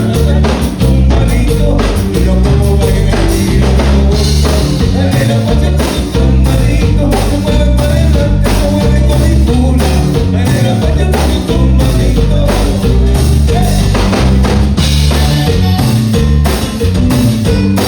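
Live Tejano band playing loudly, with a steady drum-kit beat and bass.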